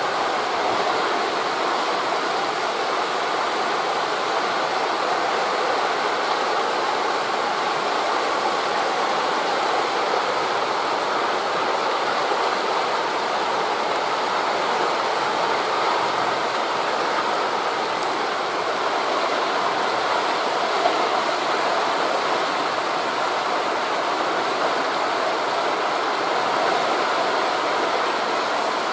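Steady rushing of sea surf mixed with wind through the tree leaves, an even noise without distinct wave crashes.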